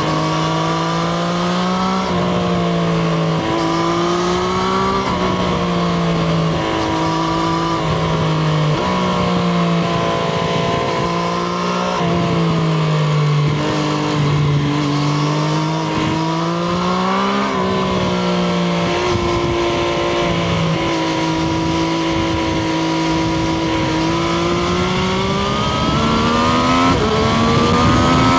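Triumph Street Triple RS's 765 cc inline-three engine running under a rider on the move, revs swelling and falling back several times, then climbing near the end. A steady rush of wind noise lies underneath.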